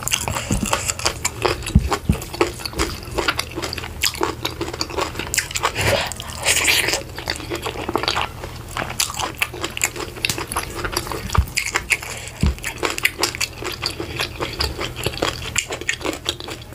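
Close-miked chewing and wet mouth sounds of a person eating leafy vegetable soup with meat by hand: irregular smacking clicks throughout, with one brief louder hiss about six and a half seconds in.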